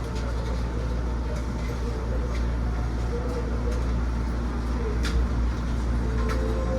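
Running sound inside a Seibu New 2000 series electric train car: a steady low rumble of wheels on rail, with a few sharp clicks from the track.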